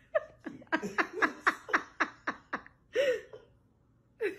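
A person laughing in a run of quick, falling bursts, about four a second, then a longer laugh about three seconds in and another just at the end.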